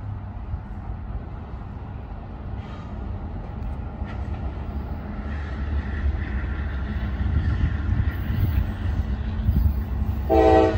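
Low rumble of an approaching freight train led by two GE CM44AH diesel locomotives, slowly growing louder. Near the end a locomotive air horn starts to blow, loud and chord-like.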